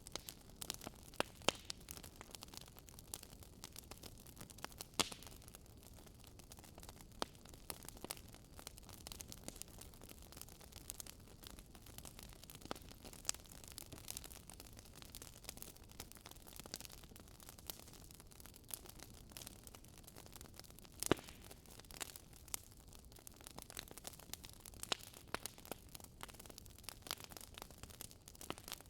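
Wood fire burning with irregular crackles and pops over a faint low rush, one louder pop about two-thirds of the way through.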